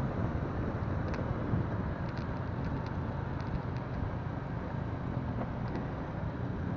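Motorcycle running along the road, a steady low rumble of engine and tyres with wind on the microphone, and a few faint ticks.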